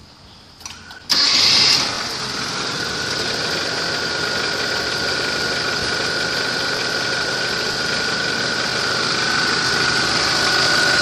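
Engine starting about a second in, with a brief louder flare as it catches, then running steadily and loudly with a steady high-pitched whine over the engine noise.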